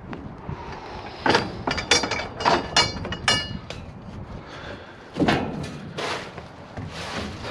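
Scrap metal being handled: a quick run of clanks and bangs, several leaving a short metallic ring, then two more heavy bangs.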